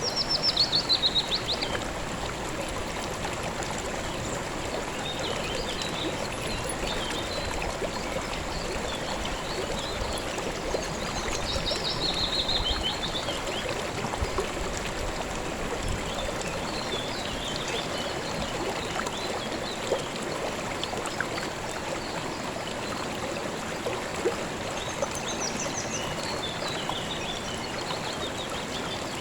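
Steady rush of a calm river flowing, with a songbird's short, rapid, falling trill at the start and again about twelve seconds in, and scattered small chirps in between.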